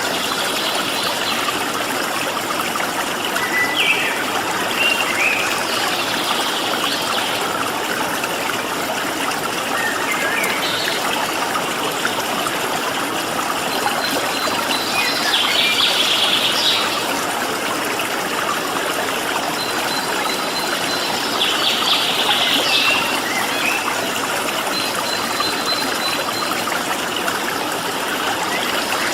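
Stream water flowing steadily, with wild birds calling over it: short bursts of quick high chirps every several seconds and a few thin, held high whistles.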